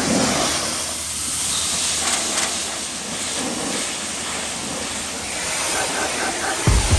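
Wash-bay pressure wand spraying water onto a truck camper to blast off bugs, a steady hissing spray.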